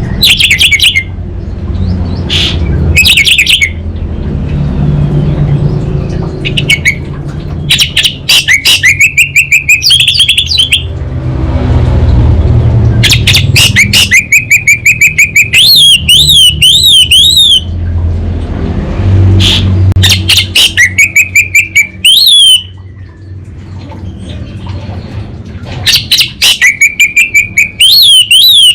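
Orange-headed thrush singing loudly in repeated phrases. Each phrase starts with a fast stuttering rattle, then a held whistle and a run of quick warbling up-and-down notes. A steady low rumble runs underneath.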